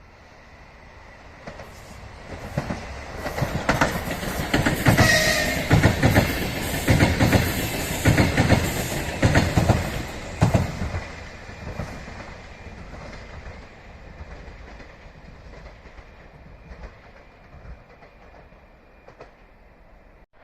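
A train passing close by. It swells in, its wheels clack over the rail joints in a steady rhythm for several seconds, then it fades away, with a thin steady high whine underneath.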